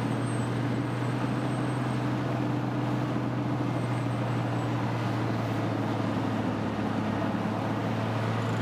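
Large wood grinder's engine running with a steady, unchanging drone.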